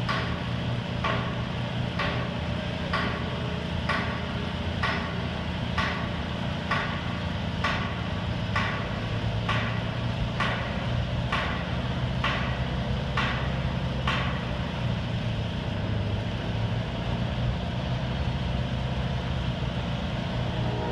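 Detroit Diesel engine of an American Hoist & Derrick 9530 crane running steadily. A sharp metallic tick comes about once a second over it, and the ticks stop about two-thirds of the way through.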